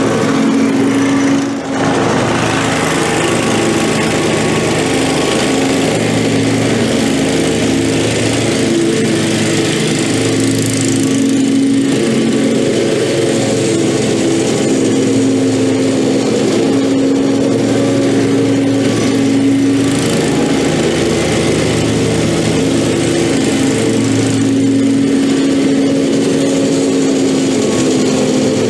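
Lawn mower engine running steadily at mowing speed, with one brief dip about a second and a half in.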